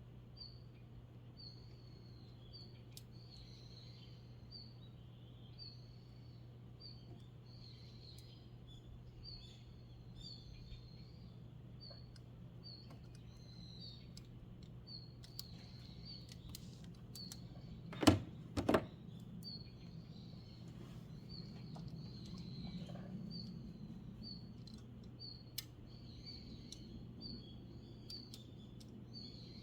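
A bird repeating a short high chirp about once or twice a second, over a steady low hum. About two-thirds of the way through come two sharp knocks in quick succession.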